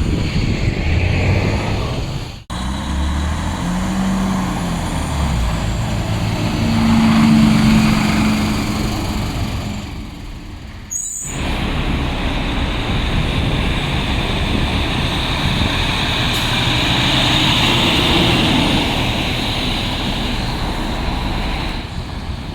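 Heavy diesel dump trucks running and passing on a city street, a continuous engine rumble with traffic noise that swells to its loudest around the middle. The sound breaks off sharply twice.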